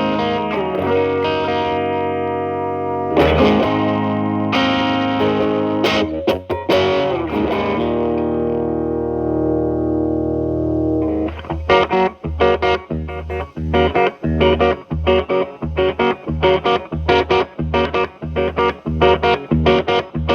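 Electric guitar (Telecaster) played through a Crunch Box distortion pedal into the clean channel of a Marshall Valvestate amp, tone turned to maximum. Distorted chords are struck and left to ring, one held and fading out, then about halfway through the playing switches to an even rhythm of short, chopped chords, about three a second.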